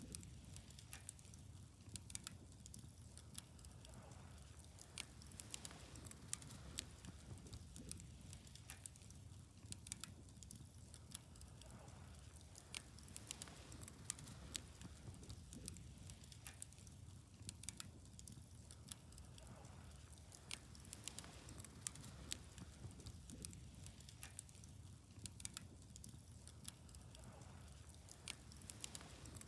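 Wood fire crackling quietly, with a constant irregular scatter of small sharp snaps and pops over a steady low rumble.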